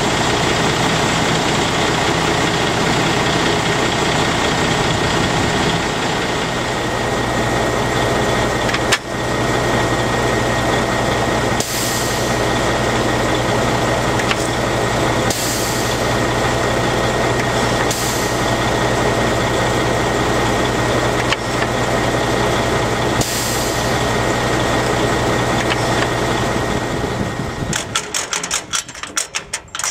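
2005 Freightliner M2 truck's diesel engine idling steadily with a high whine. A few short hisses come at intervals. Near the end the engine sound stops and a rapid ticking follows.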